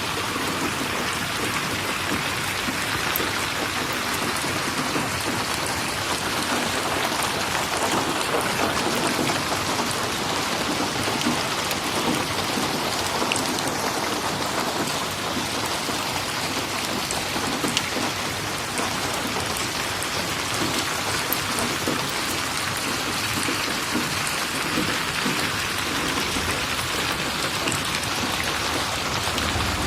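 Steady rain falling: an even hiss, with occasional faint clicks of drops.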